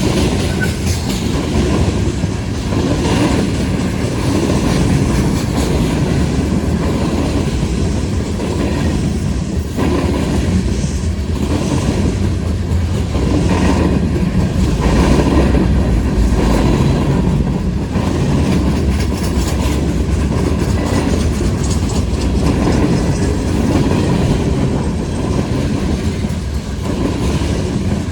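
Freight train rolling past, its wheels clacking over the rail joints in an uneven rhythm with a steady rumble of cars underneath.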